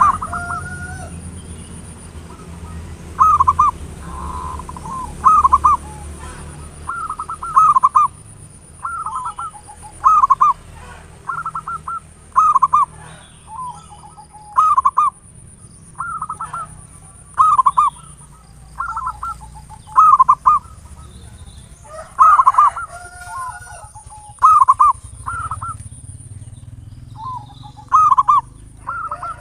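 Zebra dove cooing: short phrases of quick, bubbling coo notes, repeated about every second or two.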